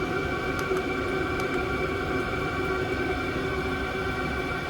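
Vevor diesel air heater running steadily, its blower fan and burner giving an even hum with a few fixed whining tones above it: the heater blowing hot air and working normally.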